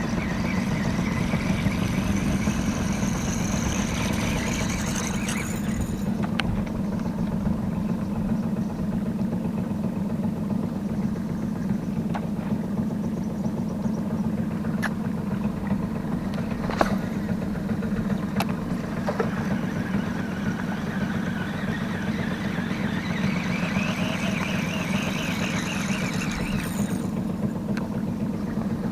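Boat engine running steadily at low revs, a constant low drone. A higher wavering whirr rises over it near the start and again near the end, and a few sharp clicks come in between.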